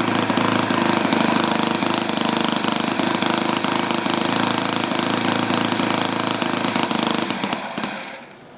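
Model airplane engine running steadily at a fairly constant speed on a test stand, then dying away near the end as it is shut down.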